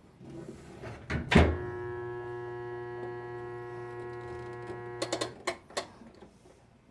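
Whirlpool direct-drive washing machine's motor running with a steady electric hum for about four seconds. It starts with a loud thunk and stops with a few sharp clicks.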